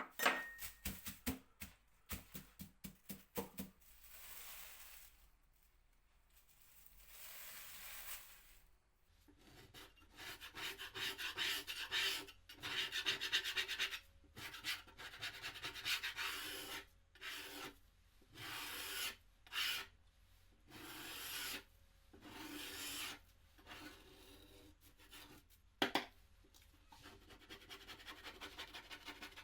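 Wood being worked by hand with an abrasive tool: a rasping rub in a series of back-and-forth strokes through the middle, after a quick run of clicks and taps at the start. One sharp knock near the end.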